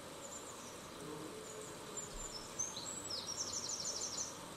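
Faint high chirping of small birds, with a quick trill of about a dozen notes near the end, over a low background hiss.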